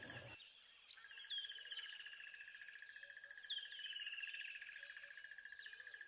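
Faint birdsong ambience: repeated falling, whistled bird calls over a steady, fast-pulsing high trill. The trill drops out just after the start and comes back about a second in.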